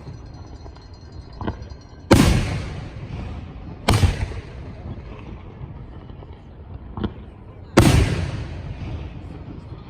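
Professional 1.3G display fireworks: aerial shells bursting, three loud booms about two seconds in, about four seconds in and near the end, with two lighter bangs between them, each rumbling away over a second or so.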